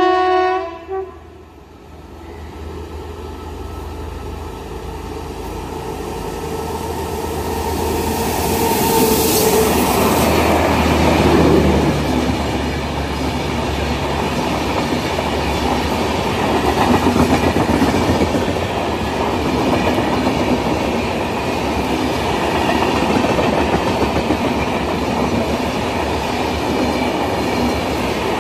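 A locomotive horn sounds and stops about a second in. Then an express train with LHB coaches approaches and runs past along the platform: a rumble grows louder, there is a brief hiss around nine seconds in, and the coaches keep up a steady rumble and clickety-clack as they go by.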